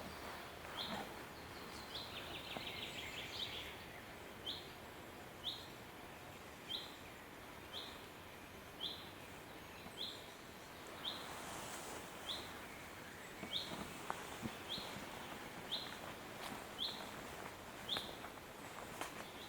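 A songbird repeating one short, high call note about once a second, over the soft hiss of the forest. A few seconds in, another bird gives a brief trill.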